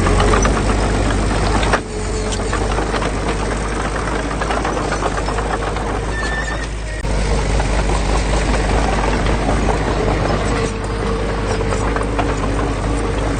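Diesel engine of heavy earthmoving machinery running steadily, with a dense metallic clatter and rattling over it.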